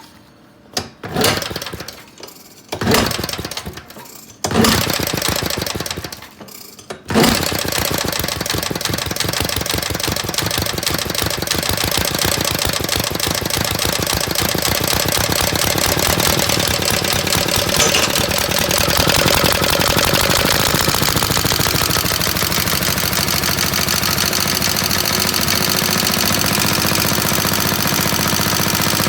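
Kick-started 1940s Clinton single-cylinder four-stroke small engine. Several kicks give a few short firing bursts that die away, then it catches about seven seconds in and runs steadily with rapid, even firing.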